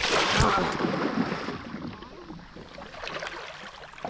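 Water splashing as a large queenfish thrashes at the surface beside a small boat while being landed. The splashing is loudest in the first second and a half, then dies down.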